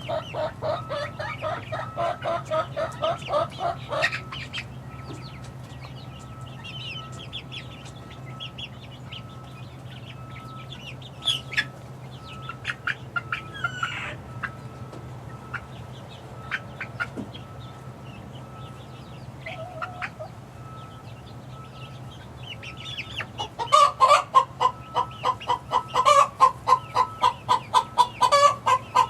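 Young six-week-old chickens calling: runs of rapid repeated cheeping clucks about four a second, at the start and again, louder, from about 23 seconds in, with softer high chirps between. A steady low hum runs under it.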